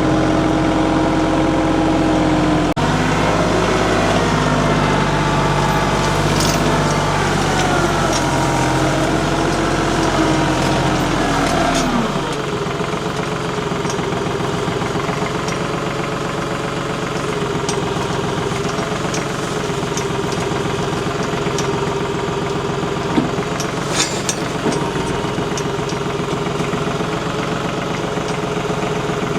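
TYM 2515 compact tractor's engine running, its pitch dipping and rising for the first dozen seconds as the load changes, then settling lower and steadier about twelve seconds in. A couple of sharp clanks near the end.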